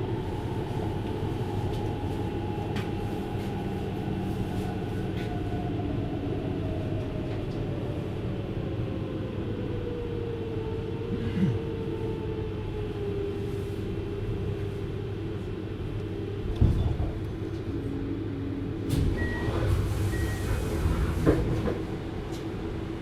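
Running sound inside a JR Hokkaido 733 series electric train: a steady rumble of wheels on rail, with the traction motor whine gliding down in pitch over the first dozen seconds as the train slows. A few knocks and a burst of clatter come in the later part.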